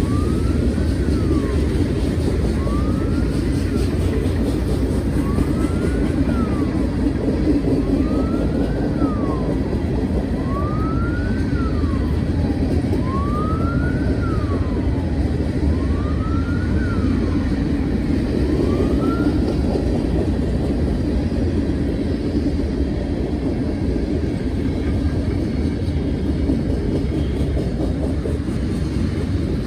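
Freight cars rolling past close by: a steady, loud rumble of steel wheels on the rails. Over it a siren wails, rising and falling about every two seconds, and stops about two-thirds of the way through.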